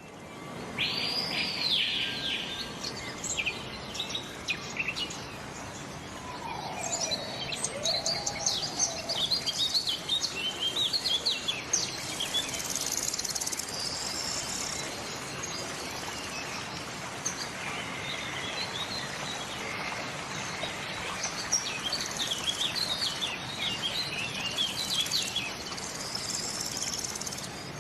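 Several birds chirping and calling, short overlapping chirps and trills, over a steady background hiss.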